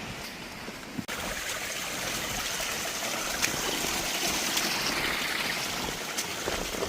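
Mountain stream running over rocks: a steady rush of water, coming in after a brief break about a second in.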